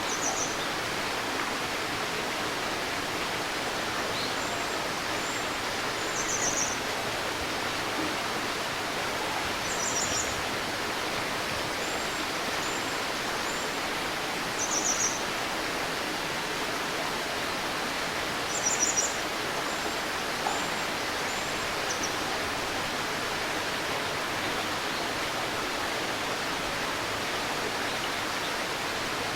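A shallow river babbling steadily. A bird calls in short, high chirps every few seconds over the water.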